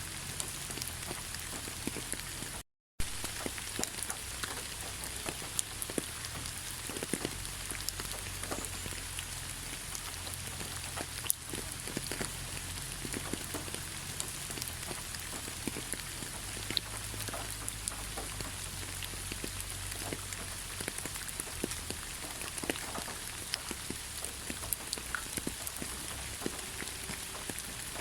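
Steady rain falling in a pine forest, with many individual drops ticking close by. The sound cuts out completely for a split second about three seconds in.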